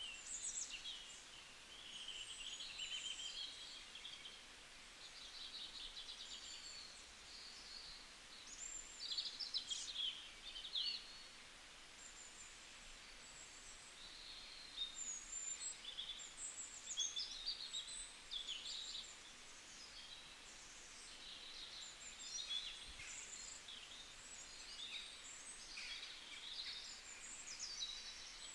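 Small birds chirping and twittering, many short high calls overlapping one another throughout, over a faint steady hiss.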